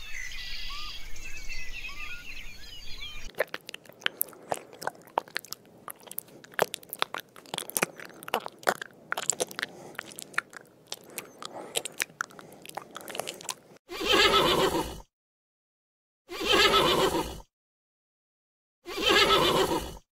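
A horse whinnying three times, each call about a second long with dead silence between them. Before that come faint bird chirps, then about ten seconds of dense small clicks and crackles.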